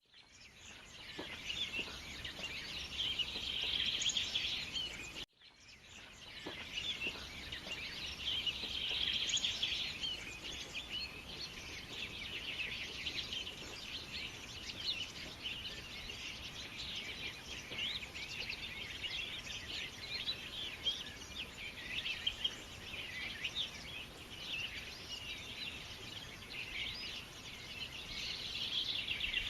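A dense chorus of many songbirds chirping and calling over one another, broken by a brief cut about five seconds in.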